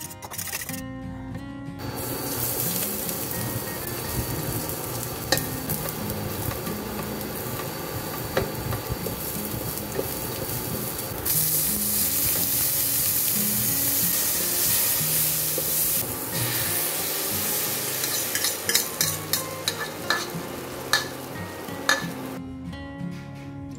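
Chopped shallots and tomatoes sizzling in hot oil in a nonstick wok, the sizzle growing louder about halfway through as more tomato goes in. Near the end a spatula clicks and scrapes against the pan several times.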